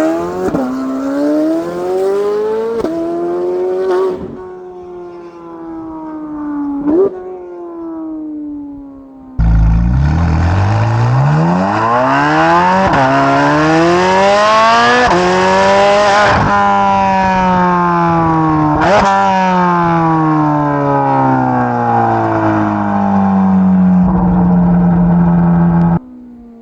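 2024 Corvette C8 Z06's flat-plane-crank 5.5-litre V8 through a new exhaust. It accelerates hard with rising revs and quick upshifts, then the revs fall as it eases off. About nine seconds in the sound jumps suddenly louder into another full-throttle pull through several upshifts, then the revs fall away and hold briefly before cutting off near the end.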